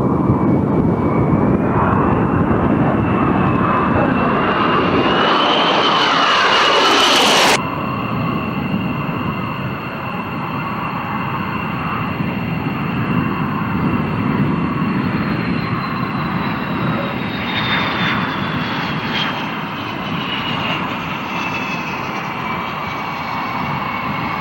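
Fixed-wing aircraft engines running, a loud dense noise with a steady high whine on top. About a third of the way in the sound changes abruptly, and then the whine slowly falls in pitch.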